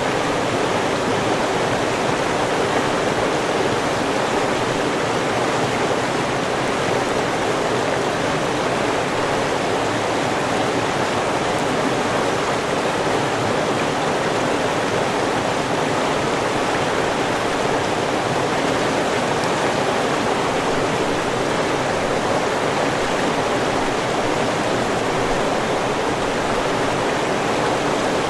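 River water rushing steadily over rocks, a continuous even rush with no breaks.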